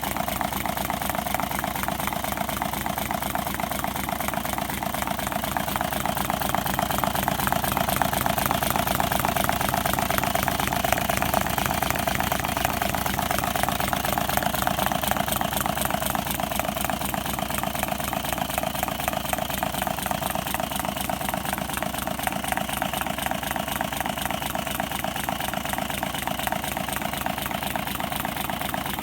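Homemade water-cooled six-cylinder Stirling engine running steadily, its moving parts making a fast, even mechanical rhythm.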